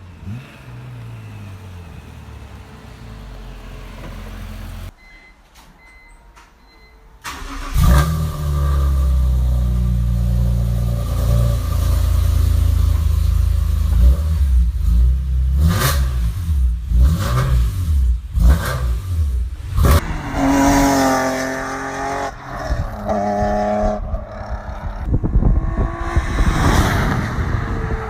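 BMW E46 M3's 3.2-litre inline-six running through a Saclam Spec 3 silencer with test pipes (no catalytic converters): an idle for a few seconds, then a quieter stretch, then about seven seconds in a loud, deep exhaust note with repeated revs and sharp rises in pitch to the end.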